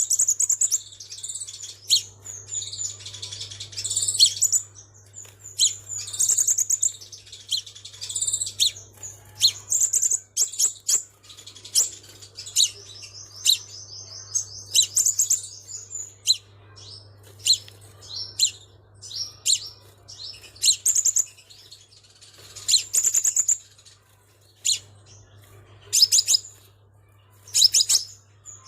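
Crimson sunbird singing: rapid series of thin, high chirps and short trilled phrases, with one longer unbroken trill around the middle. A faint low steady hum runs underneath.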